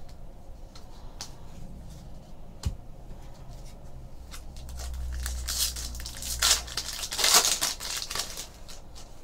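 Foil trading-card pack wrapper being torn open and crumpled, a run of crackling and tearing from about four and a half seconds in, loudest near the end. Before it, a few light ticks and a single knock.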